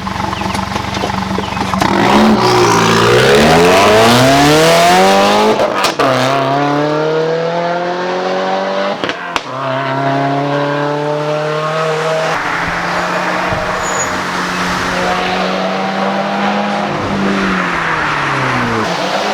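Nissan 240 engine and its ETS Extreme catback exhaust under hard acceleration, the note climbing steeply. It breaks off sharply twice, about six and nine seconds in, at what sound like gear changes. It then holds a steady drone at cruise, and falls away near the end as the throttle is lifted.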